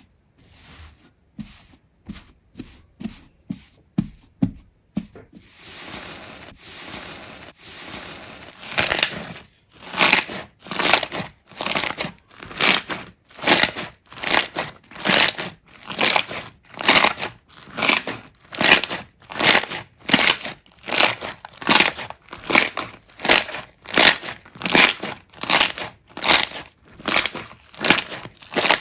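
Slime being pressed and squeezed by hand: a few scattered squishes and a softer stretch, then from about nine seconds in a steady run of loud presses, roughly one and a half a second.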